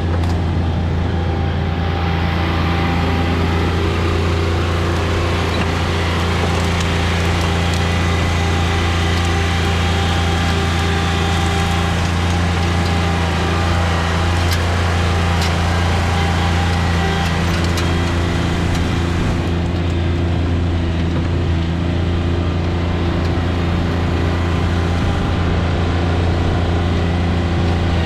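John Deere 2320 compact tractor's three-cylinder diesel engine running steadily at constant speed.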